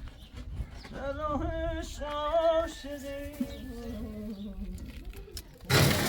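Music: a singer holding long, wavering notes of a Persian song. Near the end, a sudden loud burst of noise.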